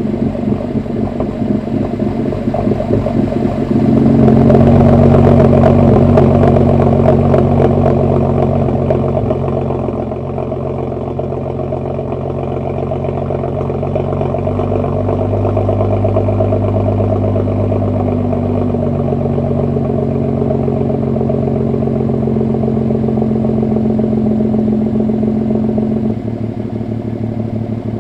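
BMW 335i's N55 turbocharged straight-six running through an M Performance exhaust and a catless VRSF downpipe. The engine is held at a steady speed, and the exhaust note grows louder about four seconds in before easing back down around ten seconds. Near the end, the deepest part of the note drops away.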